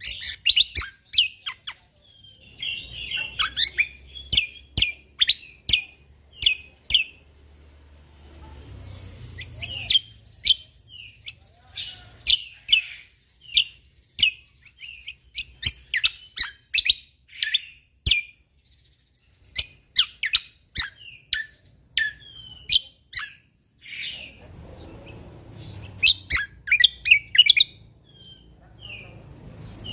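Cucak kombo (kecial kombok) from Lombok singing vigorously, a fast run of sharp, high chirps and quick phrases in bursts with short pauses, its song filled with phrases taken from wild birds.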